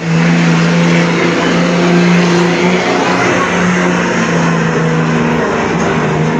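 A pulling truck's engine running loud under load, cutting in suddenly, with a nearly steady pitch that sags a little partway through.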